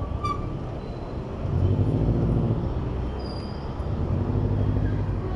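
City road traffic heard from a bicycle: motor vehicle engines swell up twice as they pass close by, over a steady traffic rumble. A short high-pitched beep sounds just at the start.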